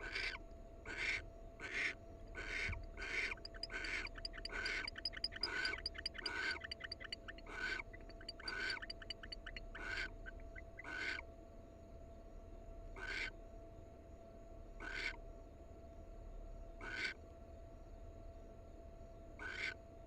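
Barn owls giving short, breathy hissing calls, about one a second at first, slowing to one every two seconds or so after about twelve seconds; between about four and ten seconds a rapid chittering runs alongside them. A faint steady electrical hum lies underneath.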